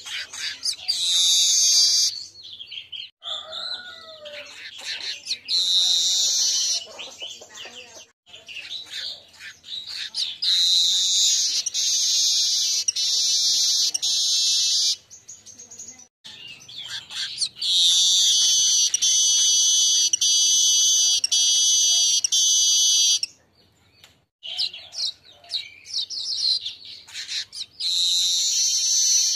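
A manyar weaver singing loudly. Its song phrases of quick, scattered chips lead into long, high, buzzing trills. The longest trill holds for about five seconds.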